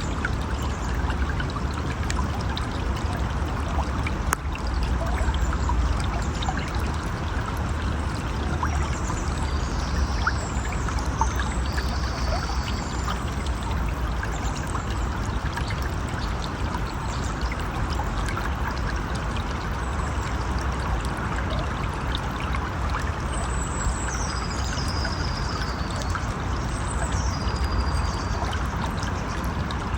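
River water running steadily, an even rushing and trickling. High, short whistled calls that fall in pitch come in two bouts, one about a third of the way in and one near the end.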